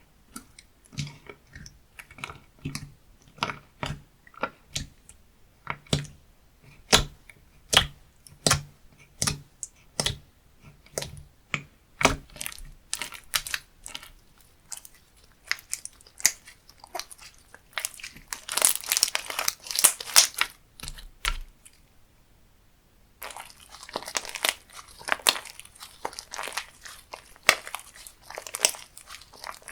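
Hands pressing and stretching slime close to the microphone: sharp sticky pops and clicks at about one a second, then dense crunching and crackling with a brief pause about two-thirds of the way through.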